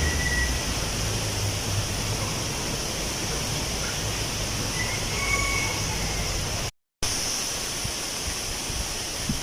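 Wind blowing through tree leaves, a steady rustling hiss, with a low rumble fading out in the first two seconds. The sound drops out completely for a moment about seven seconds in.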